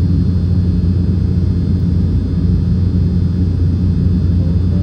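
Steady, loud cabin rumble of an Embraer E195 jet's twin CF34 turbofans and airflow, heard from inside the passenger cabin, with a faint steady high whine above it.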